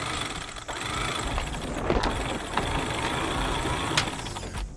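Winch hoisting a sailboat's mainsail: a steady mechanical running noise with scattered clicks and knocks, and a faint rising whine about three seconds in.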